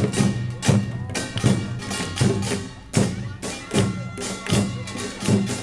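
Korean pungmul percussion band playing: kkwaenggwari small gongs clanging over janggu and buk drums in a fast, steady driving rhythm, with metallic ringing between strikes.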